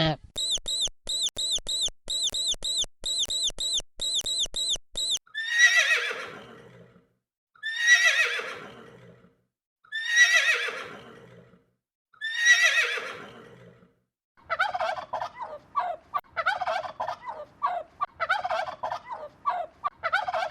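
A run of farm animal calls. First comes rapid, evenly repeated high chirping for about five seconds. Then four long calls sweep steeply down in pitch, and from about fourteen seconds in a quick, irregular gobbling chatter follows.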